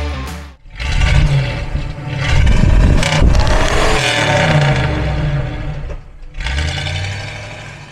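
Chevrolet small-block V8 exhaust as the engine is revved repeatedly, its pitch rising and falling. There is a short break about six seconds in, then one more run that fades away near the end.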